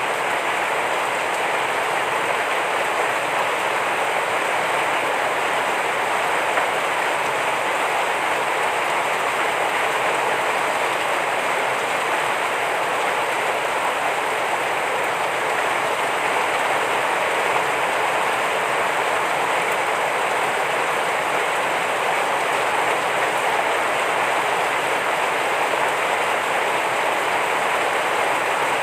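Heavy rain falling steadily, an even, unbroken hiss with no separate drops or gusts standing out.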